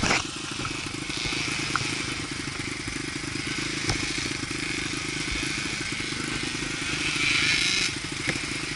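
Dirt bike engine running steadily, getting a little louder about seven seconds in.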